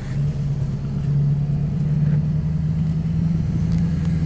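A passing truck's engine, a steady low drone that grows louder as the truck approaches.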